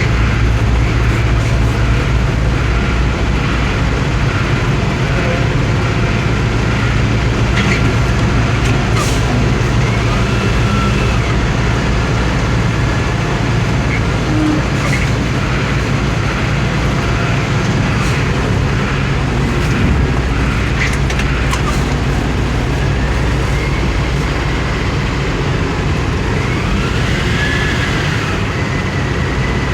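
Ottawa shunt truck's engine running steadily at a constant speed, with occasional clicks and a few faint rising-and-falling whines, one arching whine near the end.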